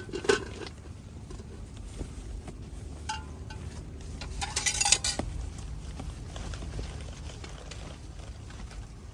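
Plates and cutlery clinking and clattering as dishes are handled, with a sharp knock right at the start and the loudest clatter about halfway through. A steady low wind rumble runs underneath.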